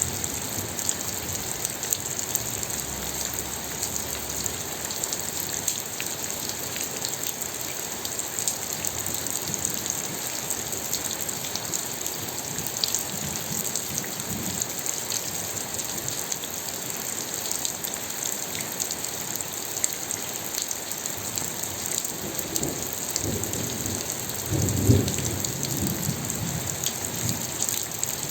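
Steady heavy rain hissing. A low rumble of thunder comes faintly about halfway through, then swells late on and peaks a few seconds before the end.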